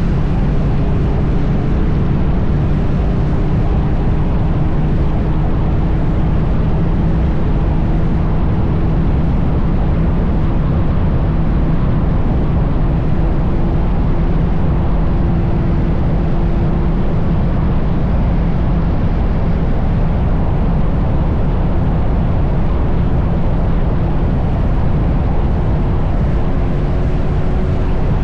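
Triumph Bonneville T100's parallel-twin engine running steadily at highway cruising speed, its drone mixed with a constant rush of wind and road noise.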